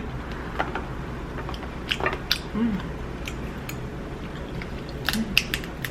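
Eating king crab legs: scattered sharp crackles and clicks of the shell being broken and picked at, sparse at first and coming in a quick cluster near the end.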